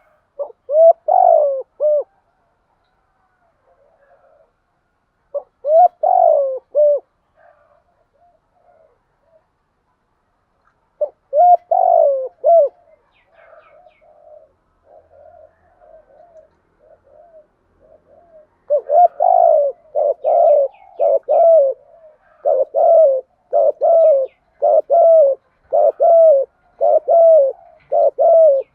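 Spotted dove cooing. First come three separate call phrases, each a few coos, with pauses between them. After soft, quick low notes, a steady fast series of loud coos follows from about two-thirds of the way in, roughly one a second.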